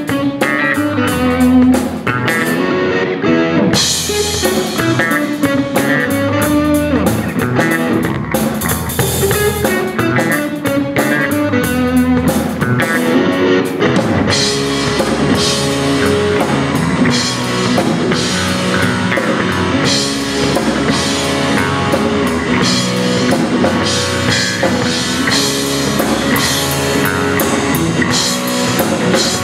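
Live rock band playing without vocals: electric guitar over bass and drum kit, with the drums and cymbals getting fuller about halfway through.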